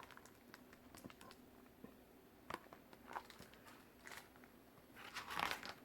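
Faint rustling and small clicks of a picture book's paper pages being handled and turned, with a louder swish of a page about five seconds in.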